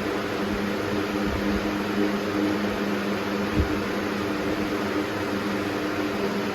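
Air King 9723 box fan running steadily, a constant rush of air with a steady motor and blade hum under it.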